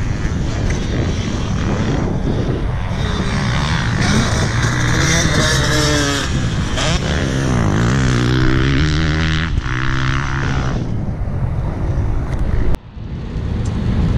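Motocross dirt bike engine under way on the track, its pitch rising and falling over and over as the throttle is worked. The sound cuts off suddenly near the end.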